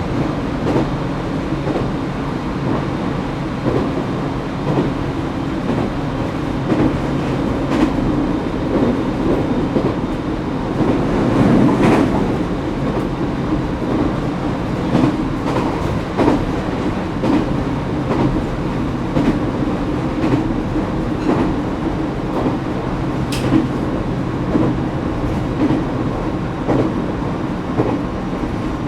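Echigo Tokimeki Railway ET127 series electric train, with Toyo GTO-VVVF traction equipment, running steadily at speed, heard from inside the car. Its wheels give irregular clicks over rail joints above a continuous rumble and hum.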